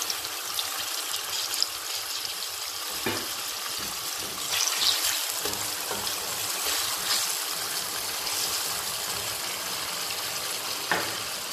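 Halved cherry tomatoes and sliced leek sizzling steadily in hot olive oil in a frying pan, stirred now and then with a wooden spatula that gives a few short scrapes.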